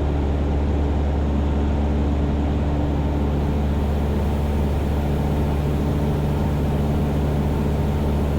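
Cessna 172's piston engine and propeller running steadily in flight, heard from inside the cockpit as a constant low drone.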